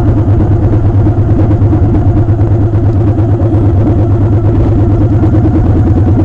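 Motorcycle engine running steadily and loudly, close to the microphone.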